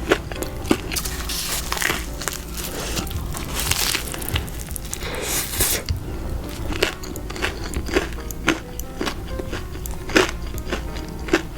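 Close-miked eating sounds: crisp biting, crunching and chewing of fried food, with sharp crunches throughout and two short rustling stretches about a third and halfway in, over soft background music.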